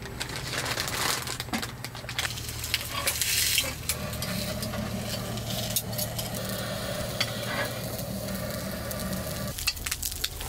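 Pork skin sizzling in a small pan on a portable gas stove, with a few light clicks of metal tongs turning it.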